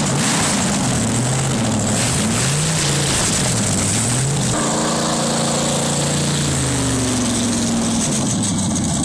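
V8 engine revving up and down several times, then holding a steady higher pitch for a couple of seconds before easing off.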